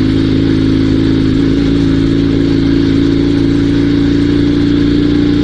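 Dnepr 16 sidecar motorcycle's flat-twin engine running steadily under way, its pitch creeping up slightly. The rider believes he has just burned the clutch.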